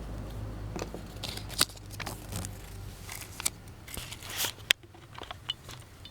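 Small plastic items being handled, with a run of irregular clicks and rustles; the sharpest clicks come about a second and a half in and near the five-second mark.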